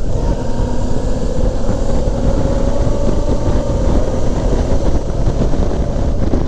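Suzuki V-Strom 650's V-twin engine running at steady road speed under a heavy rush of wind on the microphone, the engine's tone rising slightly as the bike speeds up.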